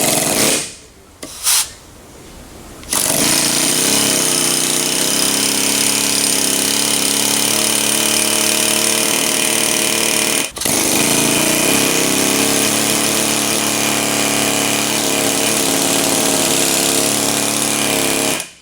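Pneumatic impact tool hammering: two short bursts, then a long steady run with one brief break about halfway, as parts of a truck rear axle are worked on during a ring-and-pinion swap.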